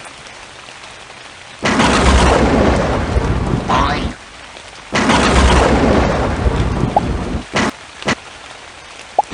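Steady rain with two loud rolls of thunder, the first about a second and a half in and the second about five seconds in, each rumbling for two to three seconds before fading back to the rain.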